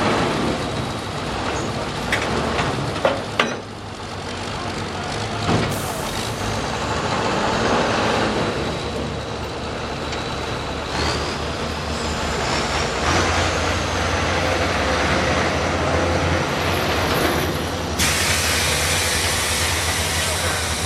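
Heavy pulling-vehicle engines running. There is a short hiss about six seconds in, a steady low engine drone from about thirteen seconds in, and a loud broad hiss that starts suddenly about eighteen seconds in.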